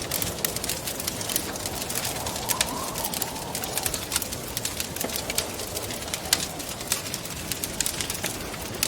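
Wood fire crackling with frequent sharp pops over a steady rush of wind, with a faint wavering moan of wind that rises and falls around three seconds in.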